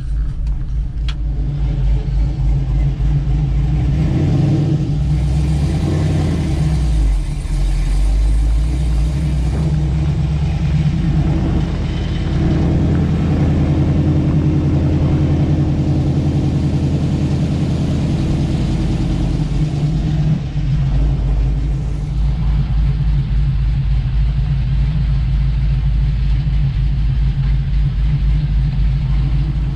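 A cammed, fuel-injected LS V8 running through headers and a dual Flowmaster exhaust, heard from inside the cab of a moving truck. The engine note shifts in pitch over the first several seconds, then holds steady, with a brief dip about two-thirds of the way through.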